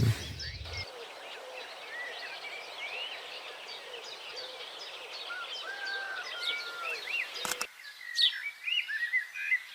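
Several songbirds singing at once: many short, overlapping chirps and whistles. A single sharp click sounds about three-quarters of the way through.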